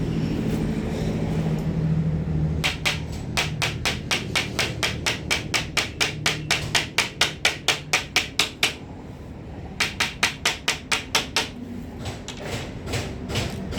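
Rapid, even tapping from a hand tool striking, about five sharp taps a second, in two runs with a short pause in between, followed by fainter taps. A low steady hum runs underneath.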